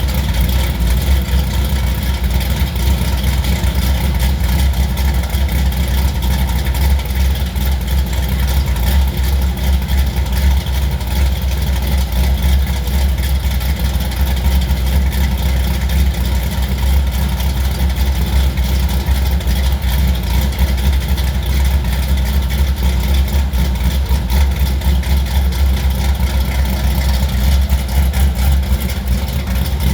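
Engine of a G-body Chevrolet Monte Carlo with a big camshaft, idling steadily.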